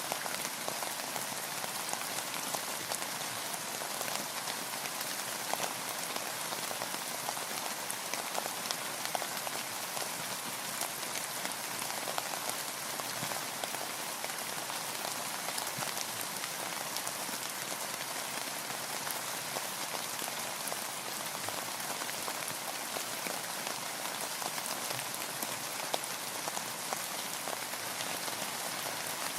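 Steady rain falling on a boat, a continuous hiss with many small drop ticks.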